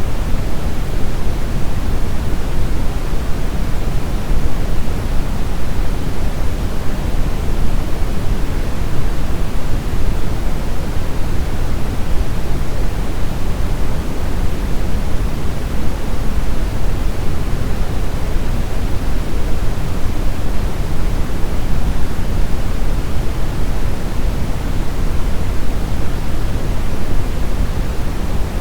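Steady brown noise: an even, unchanging hiss weighted heavily toward deep low rumble, with little high treble.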